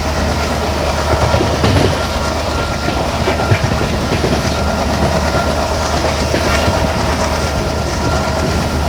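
Diesel-hauled passenger train running along the track, wheels clattering over the rails, with the steady drone of its twin WDM3D diesel locomotives.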